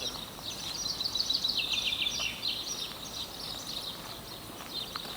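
Wild songbirds singing, a rapid run of high chirps and trills that is densest in the first half and thins out later.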